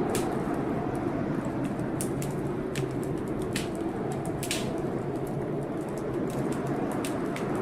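Wood fire crackling in a fireplace, with sharp irregular pops about once a second. Underneath it is the steady low rumble of a storm.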